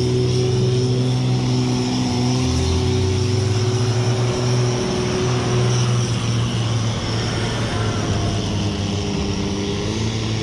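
Competition pulling tractor's engine running at a steady, loud drone near the startline, its pitch shifting slightly partway through.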